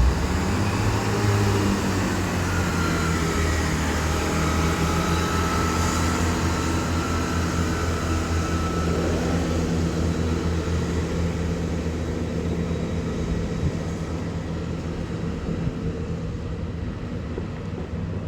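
Chiltern Railways class 165 diesel multiple unit's engines running under power as the train pulls out, a steady low drone that slowly fades.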